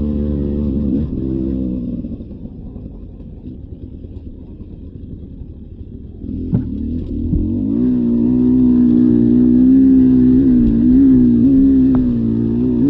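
Beta 300 RR two-stroke dirt bike engine running on the trail: it drops off to a quieter, lower stretch for a few seconds, a sharp knock comes about six and a half seconds in, then it pulls back up and holds a steady, loud note with small wavers in pitch.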